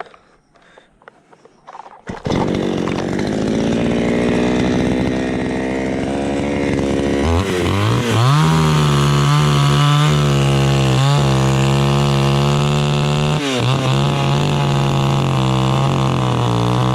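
Chainsaw starting about two seconds in and running loud and steady. It is throttled up about seven seconds in, with two brief dips in revs later on.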